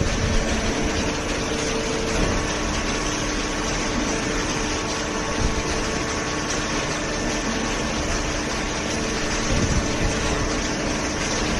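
Hydraulic cardboard baler's motor and hydraulic pump running steadily: a constant machine hum over broad mechanical noise, its hum tones shifting slightly about two seconds in.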